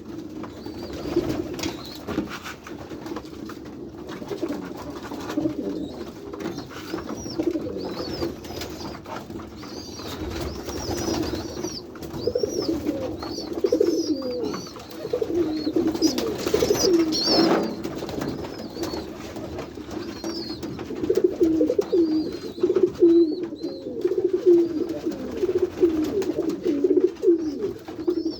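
Many domestic pigeons cooing together in an enclosed loft, overlapping coos that grow louder in the second half. Thin high chirps run above the coos, and there is a brief rustling noise about halfway through.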